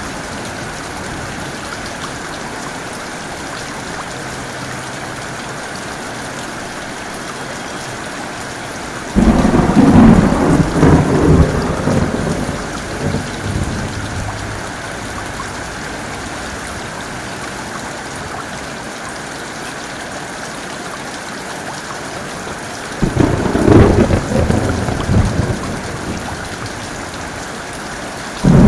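Heavy rain falling steadily, with two sudden peals of thunder about 14 seconds apart, each rumbling for three or four seconds; a third peal breaks in at the very end.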